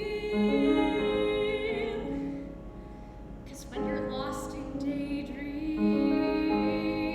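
Slow live music with piano, in sustained phrases that swell twice, separated by a softer moment around the middle.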